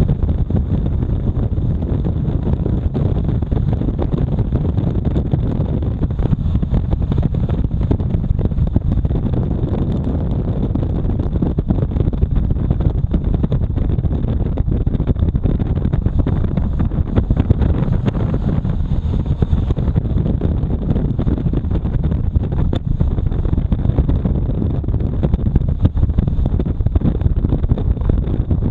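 Motorcycle riding at a steady speed: continuous engine and road noise under a heavy, even wind rumble on the microphone, with a faint steady whine.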